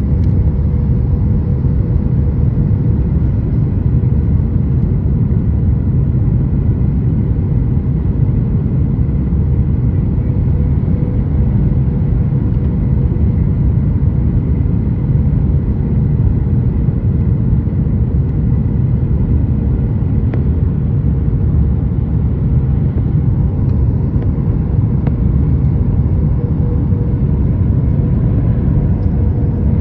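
Cabin noise of a Boeing 737 MAX 8 on final approach: a steady low rumble of airflow and engines with a constant hum underneath.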